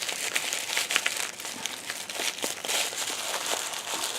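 Gift wrapping being handled and unwrapped by hand: irregular crinkling and rustling, with many small crackles.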